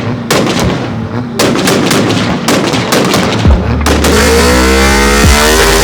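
A string of loud, sharp bangs at uneven spacing, then electronic music with a heavy bass comes in about four seconds in.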